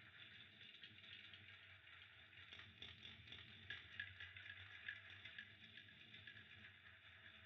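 Faint fire crackling: small irregular crackles and ticks over a soft steady hiss.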